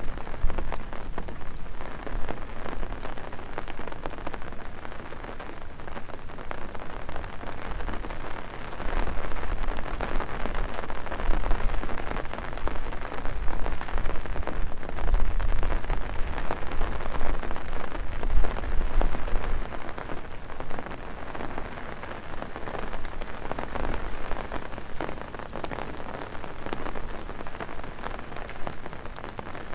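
Heavy rain drumming on an umbrella overhead, a dense, steady patter of drops with a low rumble underneath, heaviest for a stretch in the middle.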